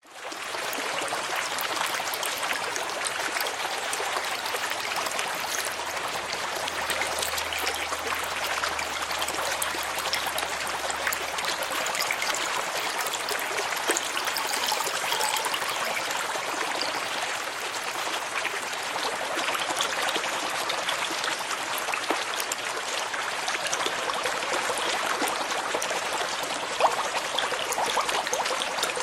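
Reef aquarium water trickling and bubbling steadily, with fine clicks of small bubbles and splashes.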